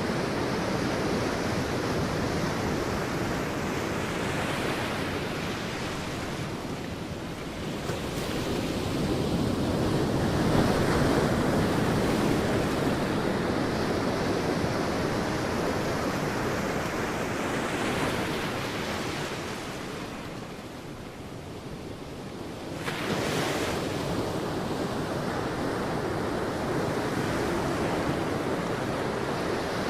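Sea waves on a beach: a continuous rush of surf that swells and ebbs as waves roll in and wash back. The loudest swell comes about a third of the way in, and another wave breaks suddenly about three quarters of the way through after a brief lull.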